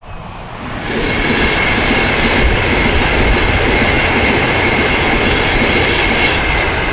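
A train running past: a loud, steady rumble with a thin high whine over it, swelling over the first second and then holding steady.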